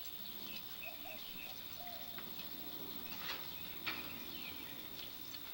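Faint bird chirps, with two sharp clicks about half a second apart a little over three seconds in.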